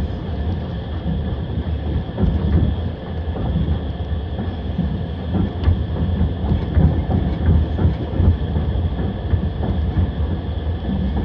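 Passenger train running at speed, heard from inside the carriage: a steady rumble with the wheels knocking over the rail joints.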